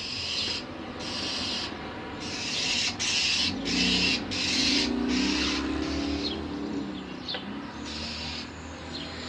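A bird giving repeated harsh scolding calls, each about half a second long, with a few short falling chirps between them: alarm calls at cats. A low hum swells and fades in the middle.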